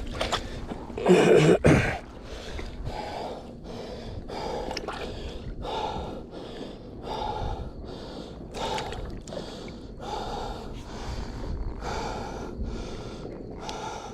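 A man breathing heavily and fast, about one breath a second, with a loud blow or gasp about a second in.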